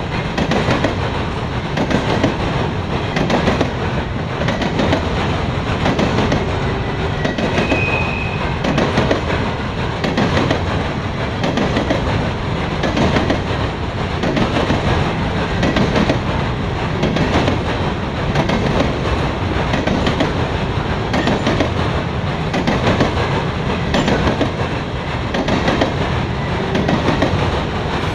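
Grain train of covered hopper cars rolling past, with steel wheels clacking over rail joints in a continuous run. A brief wheel squeal comes about eight seconds in.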